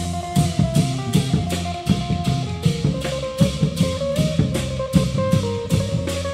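Thai Isan procession drum band playing: drums and cymbals keep a fast, even beat of about three strikes a second, under a plucked-string melody line.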